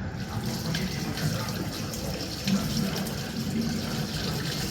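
Kitchen tap running water steadily into a sink, as a hiss of water that starts right at the beginning.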